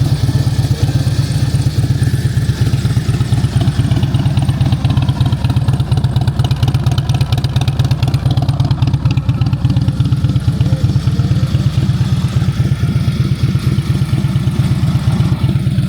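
Harley-Davidson CVO's V-twin engine idling steadily, an even, fast pulsing beat with no revving.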